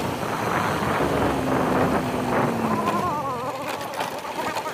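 Motorcycle engine running under way, with wind rushing over the microphone. A low, steady engine tone dips slightly in pitch, and a wavering higher tone comes in about halfway through.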